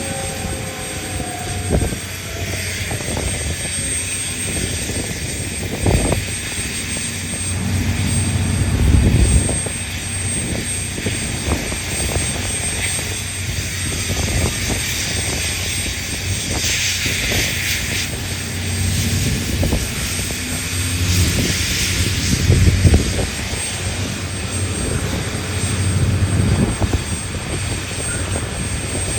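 Heavy diesel mining machinery, a Komatsu PC1250 hydraulic excavator working beside Komatsu 785 haul trucks, running with a steady low drone. Irregular knocks and thuds come through from the working equipment, with a brief hiss a little past the middle.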